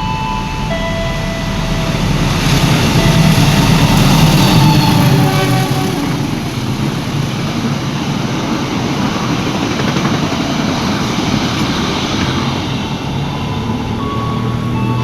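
A train passing through a station at speed without stopping: a loud, steady rush and rumble of wheels on rails, loudest a few seconds in. A few short steady tones sound at the start and again near the end.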